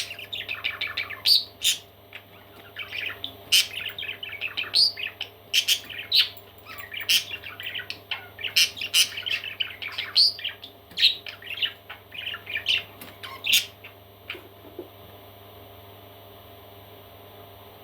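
Parrot chicks giving rapid, overlapping chirps and squawks, which stop about three-quarters of the way through.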